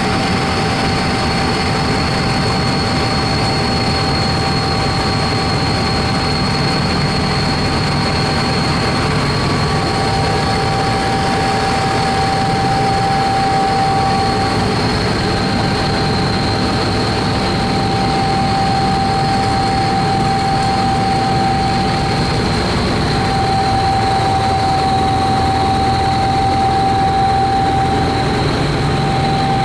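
Helicopter engine and rotor noise heard from inside the cabin: a steady drone with a high, steady whine over it.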